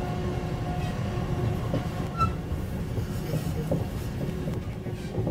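Passenger train running along the line, heard from inside the carriage: a steady low rumble of wheels on rail, with a faint steady hum above it through the first half.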